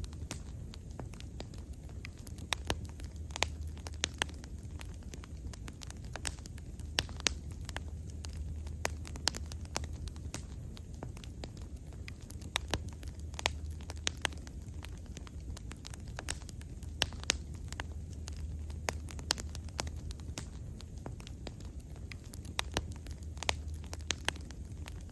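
Wood fire burning with irregular crackles and pops over a steady low rumble.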